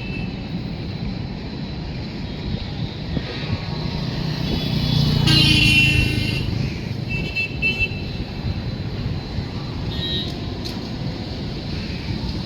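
Horns sounding over a steady rumble of moving vehicles: one longer horn blast about five seconds in, the loudest sound, then shorter toots later.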